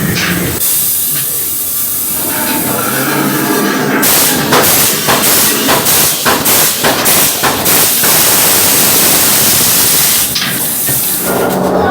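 Ride special effects hissing loudly: a rush of hiss, then a run of short, sharp hissing blasts several times a second, settling into a steady loud hiss that drops away shortly before the end.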